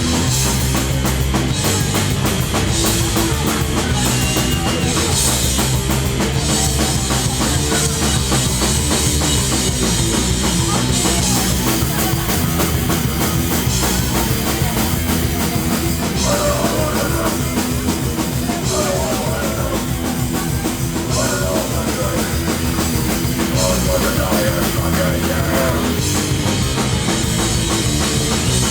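Hardcore punk band playing live: distorted guitars, bass and a driving drum kit, loud and without a break.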